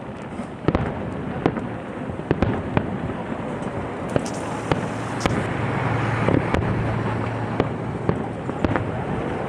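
Fireworks going off: a string of sharp bangs and crackles at irregular intervals, several each second, over a steady noisy background.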